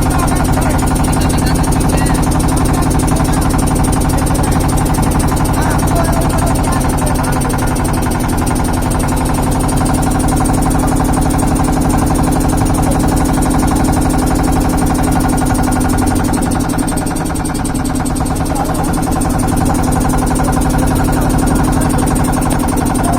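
Steady engine-like drone with an even pitch, easing off slightly past the middle and then coming back.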